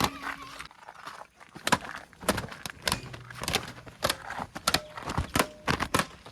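A dozen or so irregular sharp knocks and clicks, with no steady engine sound beneath them.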